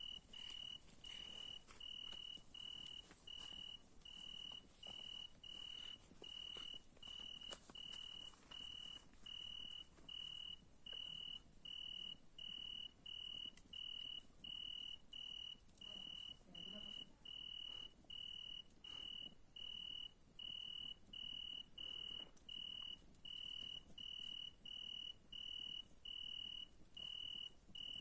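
A single cricket chirping steadily in a high, even pulse, about two chirps a second. A few faint crackles and pops of a campfire come through underneath.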